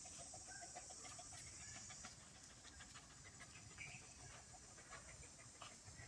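Near silence, with a few faint short bird calls and scattered light ticks.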